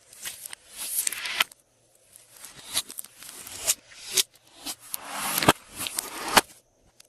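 Glossy slime being mixed and squeezed by hand: repeated wet squishing strokes, each swelling up and ending in a sharp click or pop.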